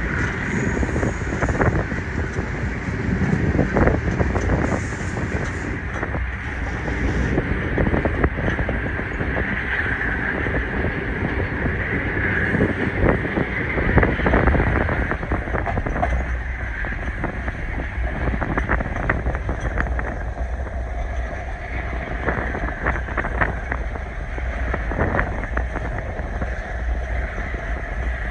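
Passenger train running along the track, heard from on board: a steady rumble and rattle of the coach with frequent clicks, and wind buffeting the microphone.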